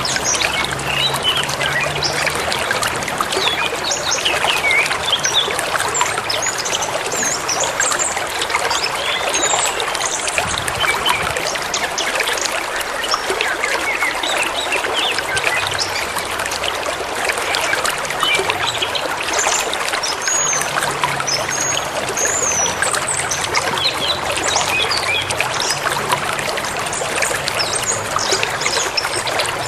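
A river flowing over stones with a steady rushing and trickling, and songbirds chirping over it in short bursts.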